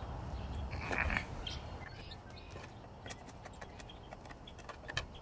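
Mora Companion Heavy Duty MG knife whittling a thick wooden stick: a rasping cut of the blade into the wood about a second in, then a run of short, sharp clicks and taps of the blade working the wood.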